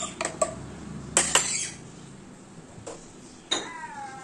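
Two sharp clicks of a utensil a little after a second in, then near the end a pet parrot's short call falling in pitch.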